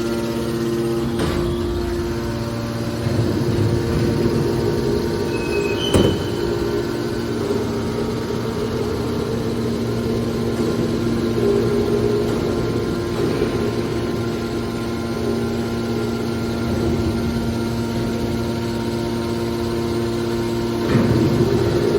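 Horizontal hydraulic scrap metal baler running, its hydraulic pump and motor giving a steady hum. There is a sharp clank about six seconds in and a louder rough surge near the end.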